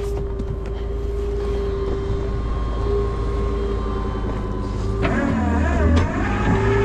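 Rollback tow truck's engine running with a steady hydraulic whine while the bed hydraulics work. About five seconds in, the sound wavers for a second, then settles back to the steady whine.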